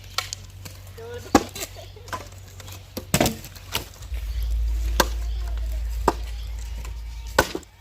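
Axe chopping firewood: a run of sharp, irregular strikes on wood. A low rumble joins from about four seconds in and stops just before the end.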